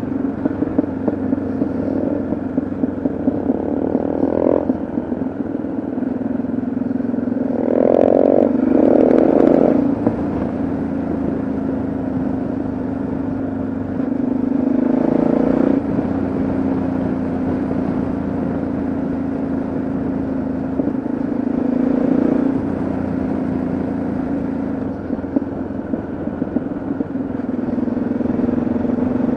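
Yamaha XT660Z Ténéré's single-cylinder engine running under way on the road, steady for the most part and picking up revs briefly several times.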